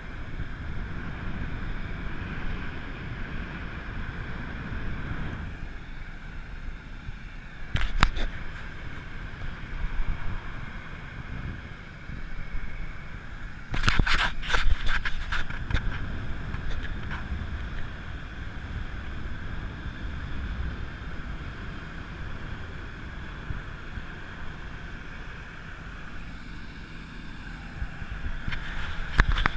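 Boat underway on the sea: steady rumble of the running boat and rushing water, with wind buffeting the microphone. A few sudden loud noises break in about eight seconds in, again around fourteen to fifteen seconds, and at the very end.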